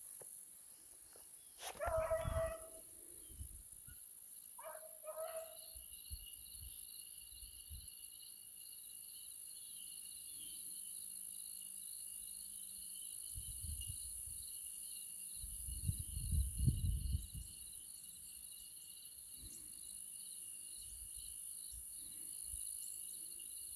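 Beagle hounds giving a couple of short bays and yips on a rabbit trail. After that comes a steady, pulsing chirring of insects, with a few low rumbling bumps about two-thirds of the way through.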